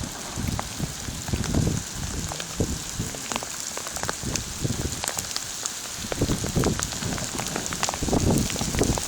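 Heavy rain falling, a steady hiss with many sharp drop ticks, over a low rumble that grows stronger near the end.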